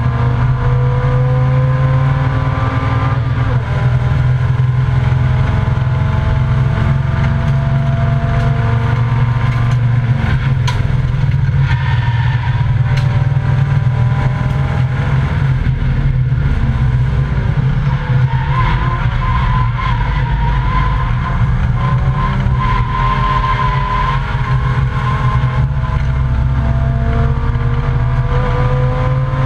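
Volvo 855 race car's engine heard from inside the stripped cockpit at racing speed, its pitch climbing again and again as it runs up through the gears, over a heavy low drone of road and wind noise.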